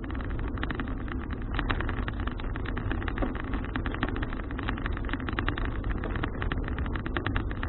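Wind rushing and buffeting over an action camera's microphone on a moving bicycle, a steady rumbling noise.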